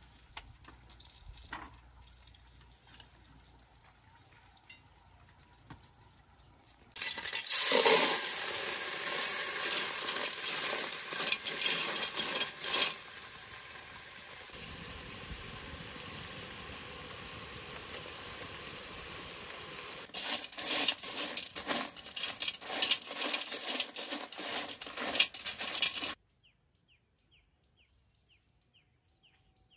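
Food tipped into hot oil in a pot over a wood fire, sizzling loudly from about seven seconds in, with rattling clicks as it is stirred. The sizzle cuts off suddenly near the end, leaving near silence with a few faint chirps.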